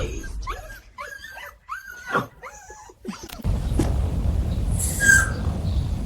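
A dog whimpering in a run of short, high yelping whines, about five in the first three seconds, then one more whine near the end over a low background rumble.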